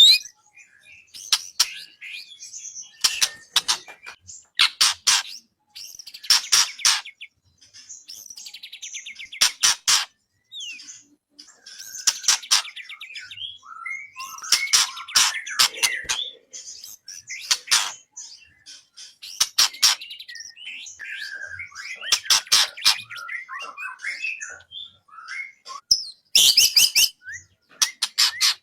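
White-rumped shama (murai batu) singing: a run of varied phrases that mix fast rattling notes with clear whistles and slides, separated by short pauses.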